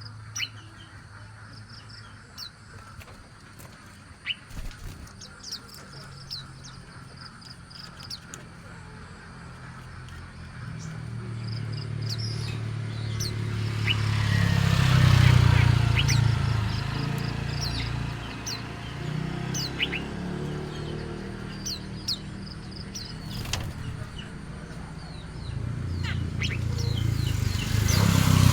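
Small birds chirping with short, high, scattered tweets while they feed, over a low rumble that grows louder around the middle and again near the end.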